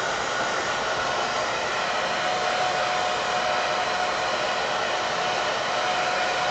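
Hair dryer blowing steadily on freshly saddle-soaped leather boots to dry them, with a faint steady whine coming in about two seconds in.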